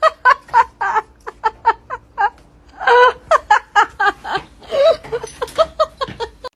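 A person laughing hard: a long run of short, rapid bursts of laughter, loudest about halfway through, that cuts off abruptly at the end.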